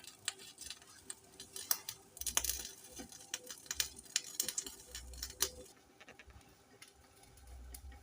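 A pot of potatoes boiling: light, irregular ticks and pops, with a faint hiss that stops about six seconds in.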